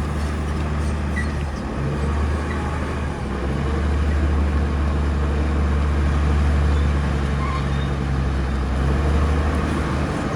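Diesel engine of heavy earthmoving machinery running steadily with a deep drone, growing a little louder about three and a half seconds in.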